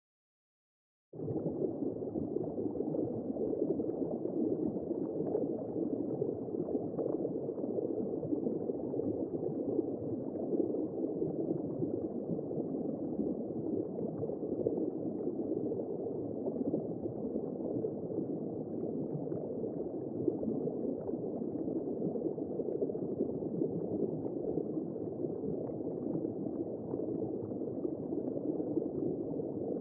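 Womb-sound white noise for settling a baby: a steady, muffled, gurgling whoosh with no high end, starting abruptly about a second in.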